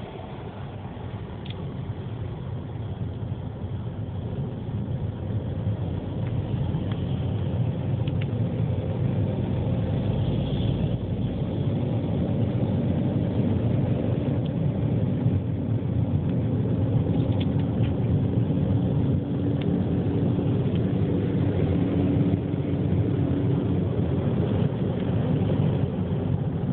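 Road and engine noise of a car driving, heard from inside, a steady low rumble that grows louder over the first ten seconds or so and then holds level.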